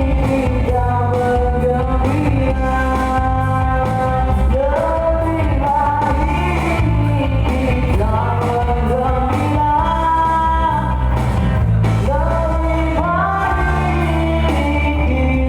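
Live band playing a pop-rock song with a singer holding long, sliding notes over bass and drums.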